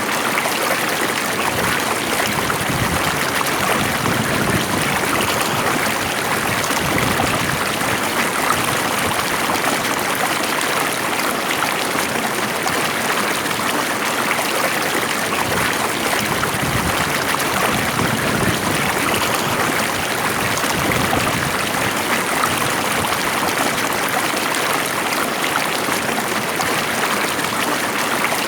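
Water flowing steadily in a stream, a continuous even rushing with fine trickling.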